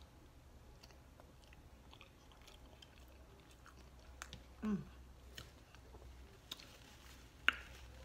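Close-up mouth sounds of a person chewing a bite of hard-boiled egg: soft wet clicks and smacks, with a short hum of the voice about halfway through and one sharper click near the end.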